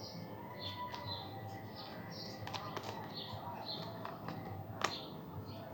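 A bird chirping over and over in short high notes, two or three a second, with a few sharp clicks among them and one louder click near the end.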